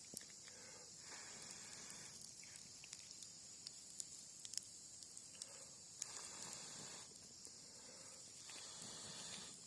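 Faint cherry-wood campfire crackling with scattered small pops and a soft hiss that comes and goes. A steady high chirring of insects runs under it.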